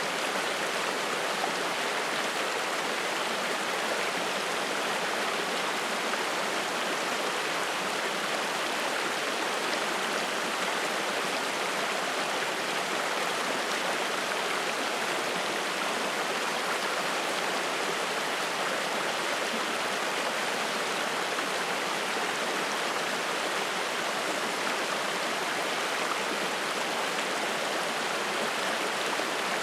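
Spring-fed mountain stream flowing and splashing, a steady, even rush of water with no change in level.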